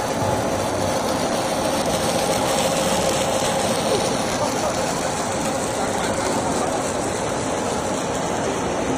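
Snack extruder production-line machinery running steadily: an even mechanical noise with a constant hum.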